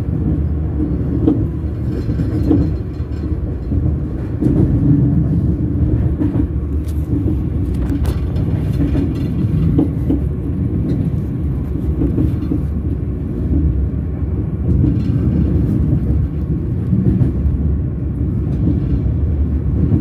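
Train wheels rolling on the rails, a steady low rumble with scattered sharp knocks.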